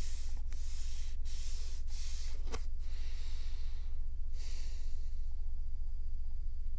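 Room tone: a steady low hum with soft breath-like hiss in the first few seconds and a faint tick about two and a half seconds in.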